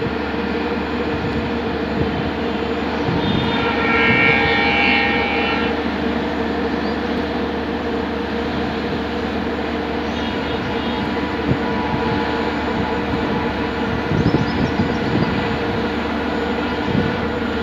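Express train hauled by a WDP4D diesel locomotive running through a station without stopping: a steady rumble of wheels on rails with a steady engine drone. The locomotive horn sounds for about two seconds, about four seconds in.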